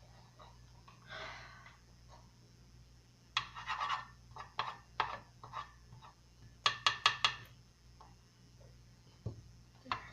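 A cooking utensil knocking and scraping against a frying pan of oil and chicken nuggets: scattered clacks, with a quick run of four sharp ones in the middle, over a faint low hum.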